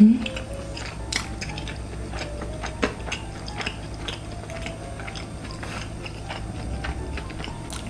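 A person biting into and chewing fried cheese snacks, with scattered small crisp clicks and wet mouth sounds. There is one short thump right at the start.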